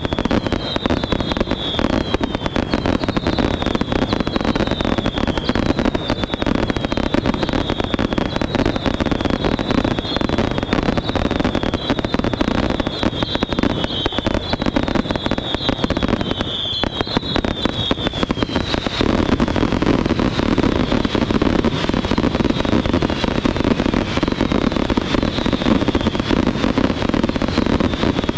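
Fireworks going off in a dense, continuous barrage of rapid crackling reports. Repeated short falling whistles sound over the crackle until about two-thirds of the way through.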